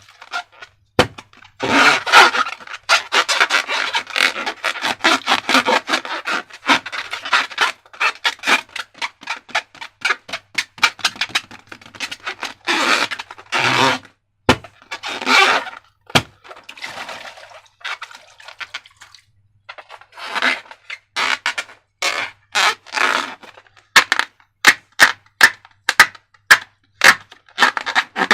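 Slime being squeezed and worked by hand, making irregular crackling and squelching sounds with sharp clicks and snaps, thickest near the start and in a quick run of snaps near the end.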